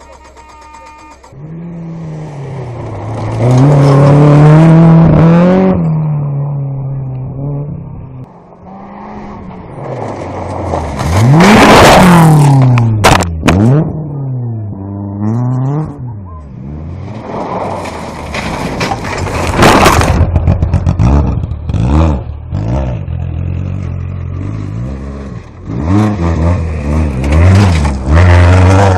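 Rally cars at full throttle, engines revving hard and dropping pitch at each gear change, with a car going past close by about twelve seconds in. A brief sharp crack is heard just after it.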